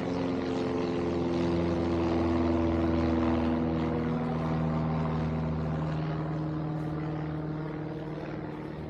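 Low-flying propeller airplane passing overhead, its engine drone swelling to loudest about three seconds in and then fading, the pitch dropping slightly as it goes by.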